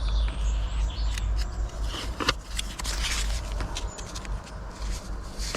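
Handling noises of writing and paper: irregular scratching and scraping with light clicks and taps, over a steady low rumble.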